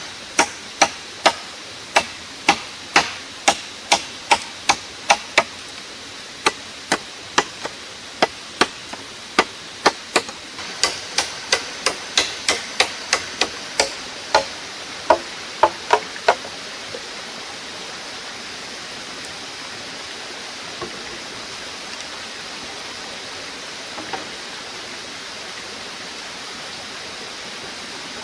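A hand tool striking over and over, some three dozen sharp blows at about two to three a second with a short pause around six seconds in, then stopping. A steady rushing noise, like a nearby stream, runs underneath.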